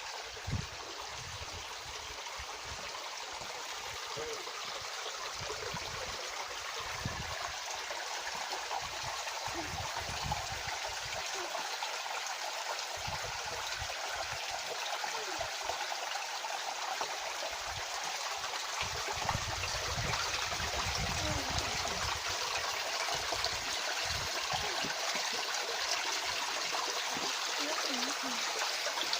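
Stream water rushing steadily over rocks, a constant hiss that grows slowly louder, with scattered low bumps on the microphone.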